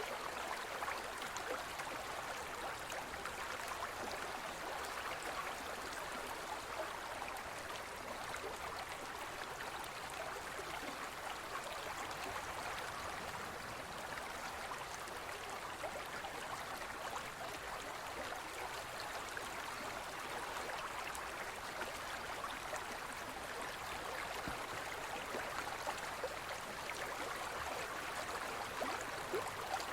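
Forest stream flowing over rocks: a steady babbling rush of water with small splashes and gurgles.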